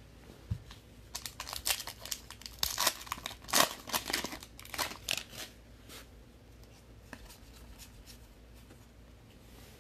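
A trading-card pack wrapper being torn open and crinkled, with dense crackling over roughly the first six seconds, then fainter handling of the cards.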